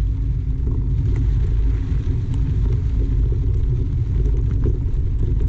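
Loud low rumble from riding a mountain bike on a dirt trail: wind buffeting the microphone and tyres rolling over the ground, with a few faint ticks.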